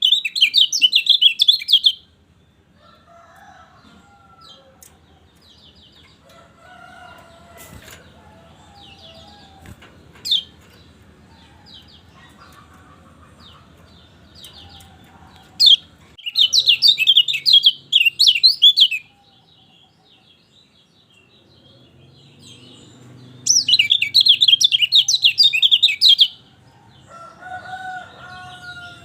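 Kecial kuning (white-eye) song as a masteran recording: three loud bursts of rapid, high chattering notes separated by stretches of fainter, lower warbling. A couple of lower whistled notes come near the end.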